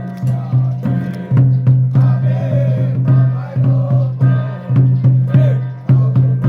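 Ritual chanting with struck percussion from a Taiwanese Xiaofa ritual master troupe. A low sustained vocal or instrumental line and wavering higher pitches run over regular strokes about twice a second.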